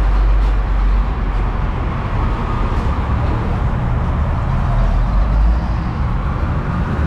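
Shelby GT350's 5.2-litre flat-plane-crank V8, fitted with long-tube headers, running at low, steady revs with a deep, even rumble.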